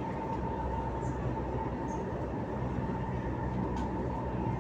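MTR Tuen Ma Line metro train running, heard from inside the car: a steady rumble with a constant high whine running through it.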